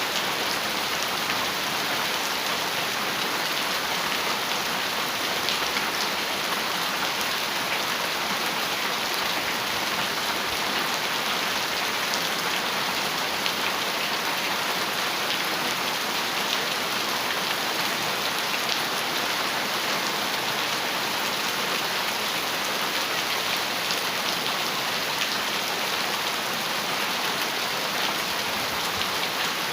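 Heavy rain falling steadily on a metal roof, a dense, even patter of drops with no thunder.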